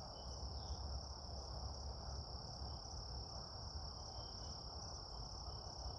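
Insects, crickets by their sound, trilling in one steady, unbroken high-pitched chorus over a low, steady rumble, with a few faint chirps here and there.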